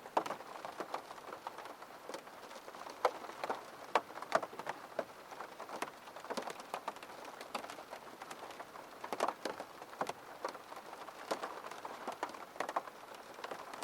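Rain falling on a window: a steady patter with many irregular, sharp taps of individual drops hitting the glass.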